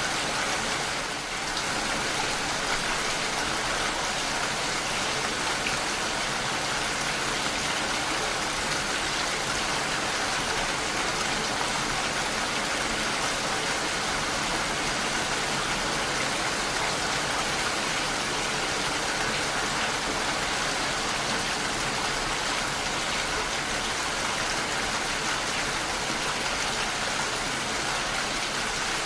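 Steady rainfall: a continuous, even hiss of rain falling, with no music.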